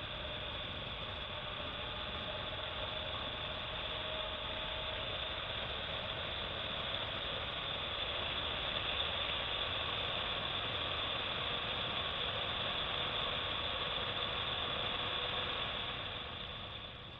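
BMW R1200GS Adventure's boxer-twin engine running steadily as the motorcycle is ridden along, with a constant hiss over it. The sound fades out near the end.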